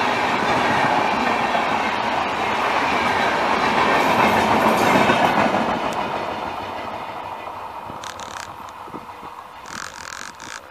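Passenger express train's coaches running past on the rails, loudest about four to five seconds in, then fading as the last coach draws away.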